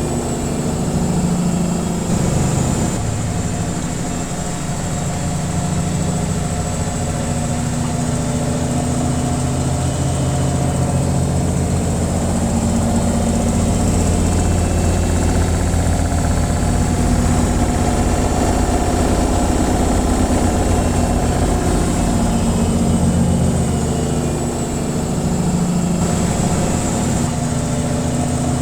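Washing machine in its spin cycle: the drum spinning with a steady low hum and rumble, its pitch shifting slightly a few times.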